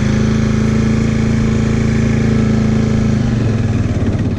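Motorcycle engine running at a steady pitch while the bike is ridden, its even note breaking up about three seconds in.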